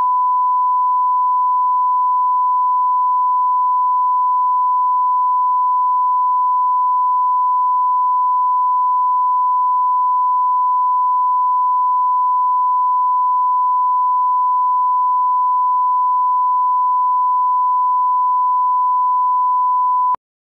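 Steady 1 kHz line-up tone, the reference tone played with colour bars at the head of a broadcast master for setting audio levels. It holds one unchanging pitch and loudness and cuts off suddenly near the end.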